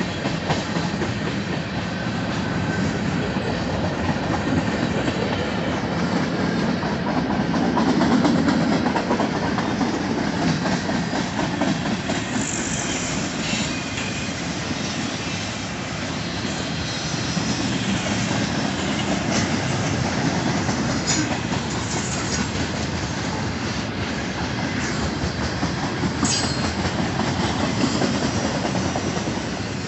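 Union Pacific freight train rolling past with steady wheel-on-rail rumble and clickety-clack over rail joints. Brief high-pitched wheel squeals come a few times in the second half.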